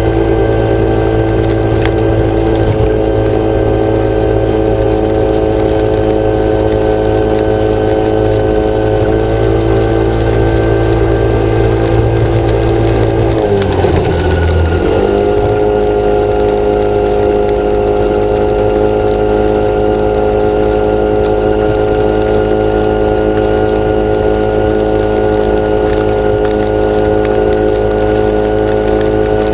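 A motor running with a steady hum that dips and wavers briefly about fourteen seconds in, then settles at a slightly lower pitch.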